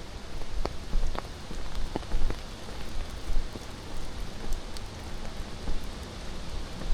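Steady rushing of water from the falls, with footsteps on the forest trail: a few sharp clicks and crunches in the first couple of seconds and low thuds about once a second.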